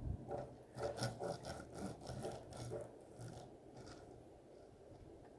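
A Lego toy truck pushed along a surface, its plastic wheels rubbing and scraping in a string of short strokes that fade out after about four seconds.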